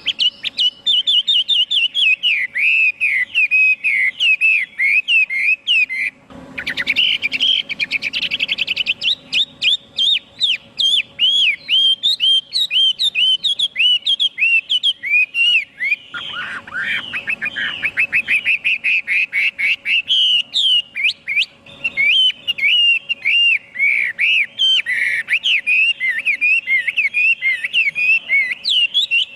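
Chinese hwamei singing a loud, rapid song of fast repeated whistled notes. The phrases change every few seconds, with a brief pause about six seconds in.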